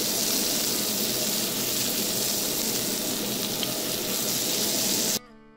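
Ground-beef burger patties topped with cheese slices sizzling steadily in melted margarine in a frying pan. The sizzle cuts off suddenly near the end and acoustic guitar music begins.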